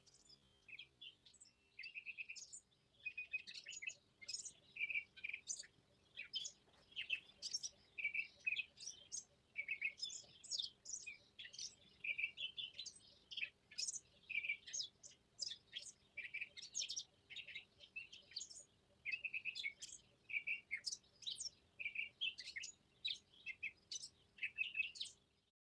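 Countryside songbirds singing: a rapid, uneven series of high chirps and short trills that cuts off near the end.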